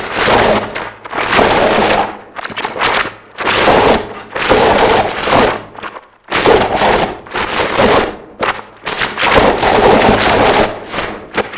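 Harsh noise music: loud walls of distorted noise spread across all pitches, chopped into irregular blocks of about half a second to a second and a half with abrupt cut-outs between them.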